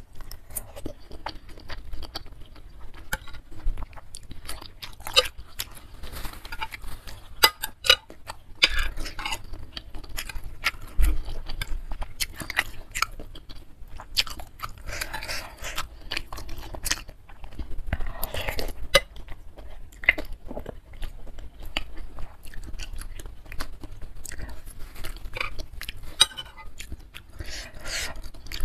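Close-miked chewing and wet mouth smacking of a person eating beef tendon meatballs, beef scraps and noodles in soup: a run of sharp clicks and squelches, with a few longer slurps.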